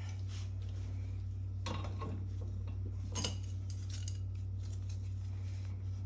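A few light metallic clinks and rattles of small metal parts or tools being handled, over a steady low hum.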